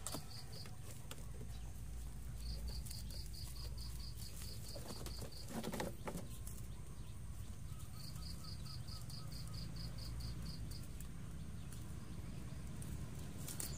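A small bird chirping outdoors: rapid high chirps, about five a second, in runs of about three seconds that come three times, over a low steady rumble.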